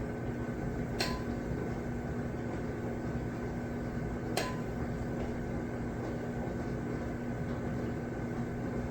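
Steady kitchen hum with a few constant tones, broken by two light clicks about a second in and again about four seconds in: a dough scoop tapping the stoneware baking sheet as biscuit dough is dropped.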